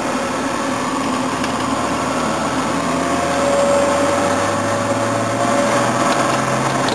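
Car engine running steadily while driving, with the engine's hum growing a little louder from about halfway.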